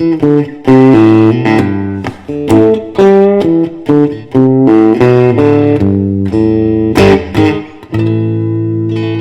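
Electric guitar, a Fender Stratocaster through a guitar amp, playing a mellow blues outro: picked notes and chords about two a second. About eight seconds in it lands on a final chord left ringing.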